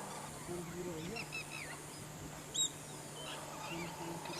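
Chorus of wild marsh birds: many short chirping calls overlapping, with some lower calls beneath, and one brief, louder, sharp call about two and a half seconds in.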